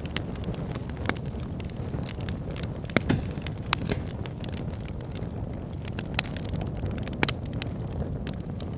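Bonfire burning: a steady low rush of flame with wood crackling and popping throughout, a few sharper pops standing out.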